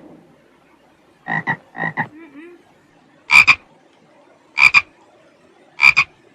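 Frog croaking: five short calls at intervals of about a second, each made of two quick notes, the last three louder than the first two.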